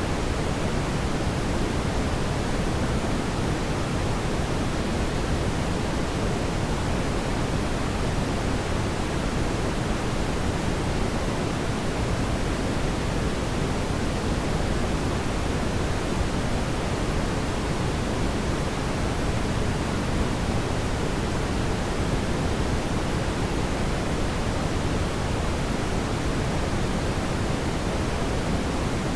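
Steady, even rushing noise, heaviest in the low end, with no distinct crackles or pops.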